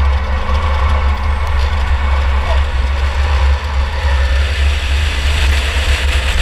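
2004 Chevy Impala enduro car's engine running steadily, heard from inside the car, with a heavy deep rumble and no sharp impacts.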